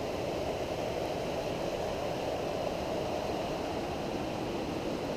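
Steady rush of a fast-flowing river running high after a rain spike.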